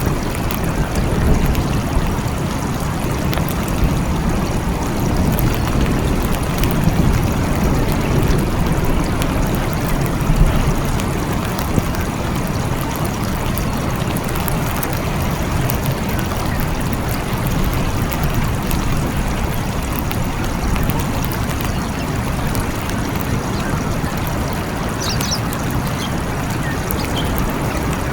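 Steady rain falling in a forest, with low thunder rumbling in the first ten seconds.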